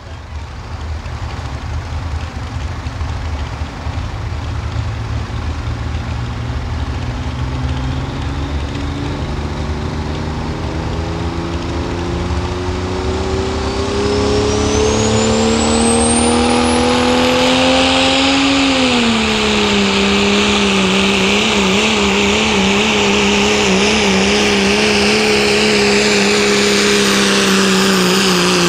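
Pro street diesel pickup truck pulling a sled at full throttle. The engine climbs steadily in pitch while a turbocharger whine rises to a high whistle. About 18 s in, the engine pitch drops and then holds unevenly, wavering up and down.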